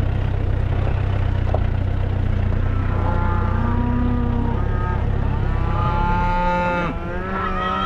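Several cattle mooing, long calls overlapping one another from about three seconds in: the herd calling in the belief that they are about to be fed. Under them a vehicle engine idles steadily, its low hum dropping away about seven seconds in.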